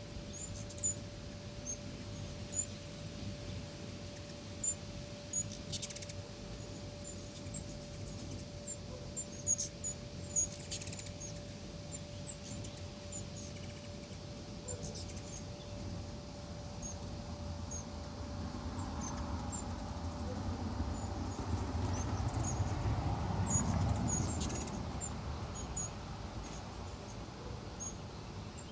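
Hummingbirds making many short, high-pitched chips and squeaks, with the low hum of their wings swelling and fading as a bird hovers close, loudest a little past the middle.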